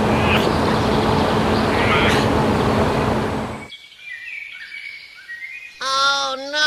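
Birds chirping over a loud, steady noise with a low hum, which cuts off suddenly about halfway through. Quieter bird chirps follow, and near the end a drawn-out, pitched human call.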